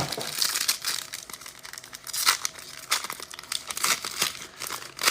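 Plastic wrapping on trading card packs being torn open and crinkled by hand, a continuous run of irregular crackles.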